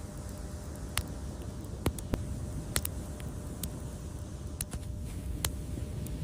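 Wood fire crackling: sharp pops and snaps every second or so over a steady low rumble.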